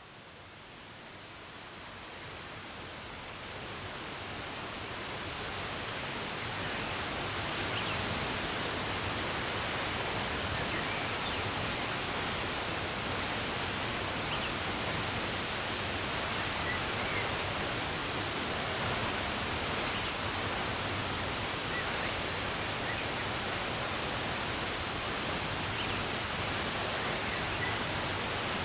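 Running water rushing in a steady hiss, fading in over the first several seconds, with faint bird chirps now and then.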